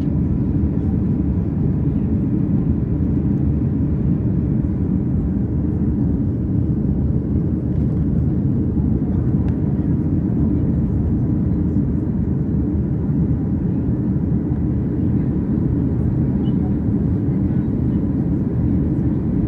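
Steady low rumble of a Boeing 737's jet engines and airflow, heard from inside the passenger cabin.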